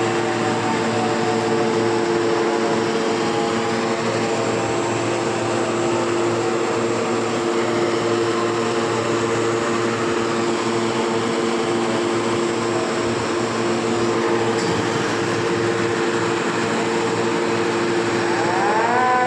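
Heavy machinery of a railway wagon tippler running with a steady, loud drone. Near the end a warning siren winds up and then holds its pitch.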